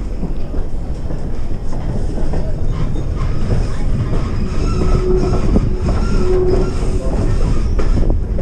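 Passenger train rolling along the rails: a steady low rumble with wheel clatter, and a brief faint squeal of wheels on the rails about the middle.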